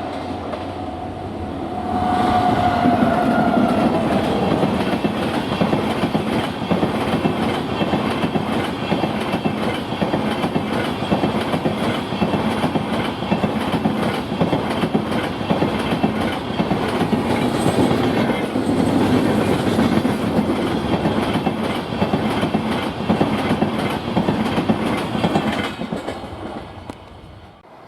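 Passenger train hauled by a WAG-9 electric locomotive passing at speed. A short horn note, falling slightly in pitch, sounds about two seconds in, then the coaches rattle and clatter over the rail joints, fading away near the end.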